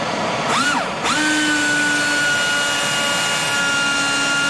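Small pneumatic angle grinder, its gearbox torch-heated, running free. A short rev rises and falls about half a second in; then about a second in it spins up and holds a steady high whine, over a constant hiss.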